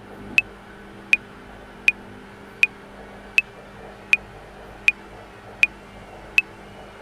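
Metronome clicking at 80 bpm, sharp even ticks about three quarters of a second apart, starting about half a second in. A washing machine runs underneath as a steady low hum.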